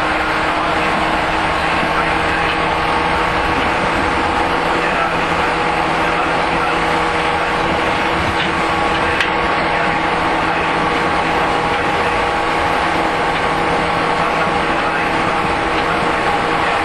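JR 115-series electric multiple unit's traction motors giving a steady hum of several held tones over continuous wheel-on-rail running noise, heard on board between two motor cars while the train runs at a steady speed.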